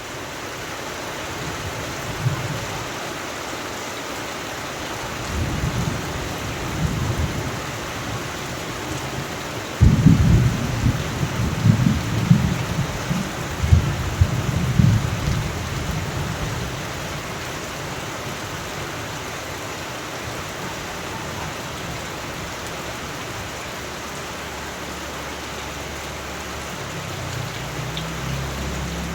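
Steady heavy rain hissing, with rolling thunder. The loudest peal breaks suddenly about a third of the way in and rumbles on for several seconds, and fainter rumbles come before it and near the end.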